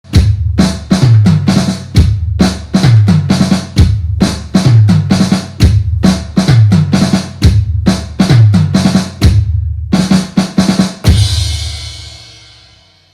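Closing music: a loud drum-kit beat of booming bass-drum kicks and snare hits at a steady pace. It ends about eleven seconds in on a final hit with a cymbal crash that rings and fades away.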